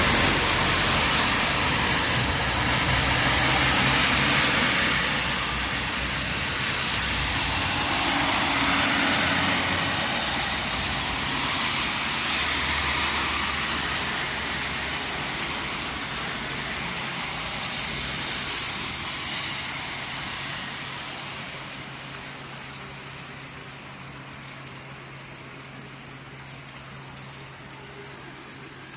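Heavy storm rain pouring down, its rush swelling several times before easing off gradually toward the end.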